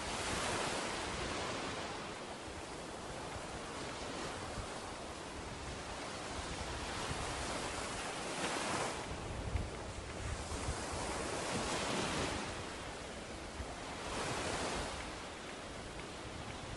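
Ocean surf washing onto a beach, the wash swelling and fading in a few slow surges.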